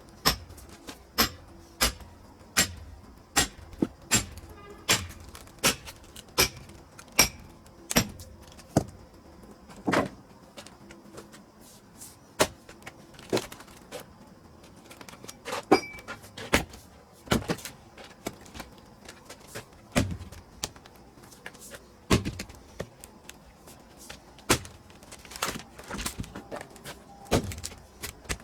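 A long run of sharp knocks from split pine firewood, irregular and roughly one to two a second, some louder than others.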